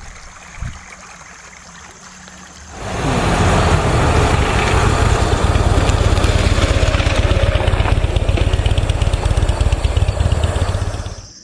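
Water at a rolling boil in a metal double-walled container: a loud, steady bubbling rumble that starts suddenly about three seconds in and cuts off abruptly near the end.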